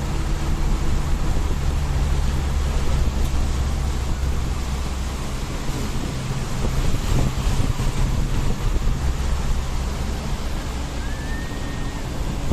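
A vehicle driving in the rain: a steady low engine hum under an even hiss of tyres and rain on the road.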